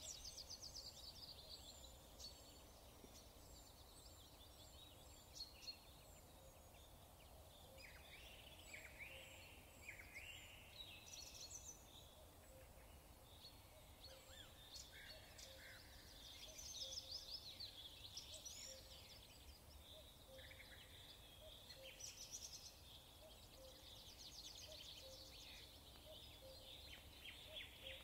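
Faint birdsong: several small birds chirping and trilling over a low steady hiss.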